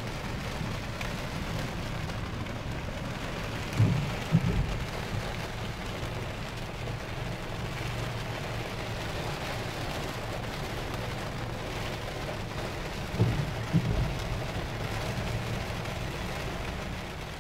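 Heavy rain beating steadily on a car's roof and windows, heard from inside as an even hiss. Twice, about four seconds in and again about thirteen seconds in, a pair of short low thumps stands out as the loudest sound.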